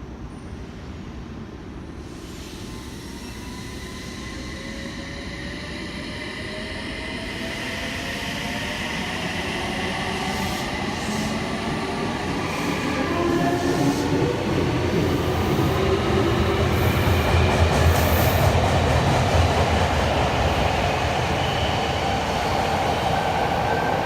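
Nagoya subway train pulling away, its traction motors whining in several tones that rise steadily in pitch as it speeds up, with the running rumble growing louder over the first half and then holding.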